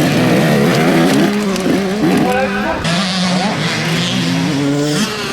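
Several motocross bikes racing, their engines revving up and dropping back as the riders work the throttle and shift gears.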